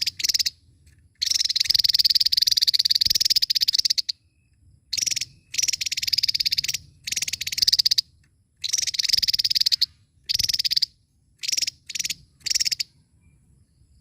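Javan tesia singing: repeated bursts of a high, very fast buzzy trill, mostly short phrases with one run lasting nearly three seconds.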